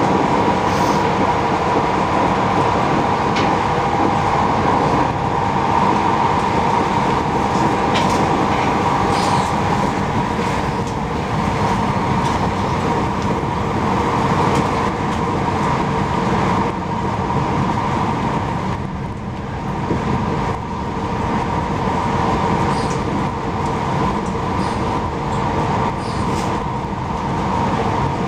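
Inside a passenger train running at speed: a steady rumble of wheels on rails with a humming tone that is strongest in the first ten seconds or so, and a few faint clicks.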